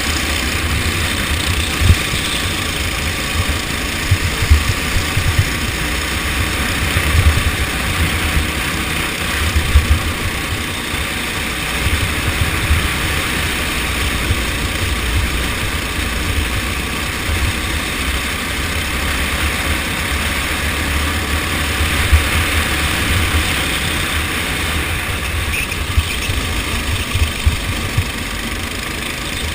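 Go-kart engine running during a race, mixed with heavy wind buffeting on the microphone: a steady loud noise with irregular low thumps.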